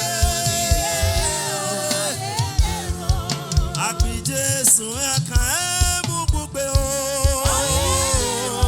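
Live gospel praise music from a church choir and band: singing with sliding vocal runs over a steady drumbeat.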